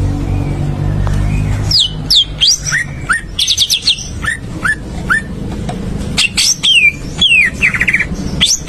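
A songbird singing a quick series of sharp, downward-gliding chirps mixed with short rapid trills, starting about two seconds in. A steady low hum sounds in the first couple of seconds.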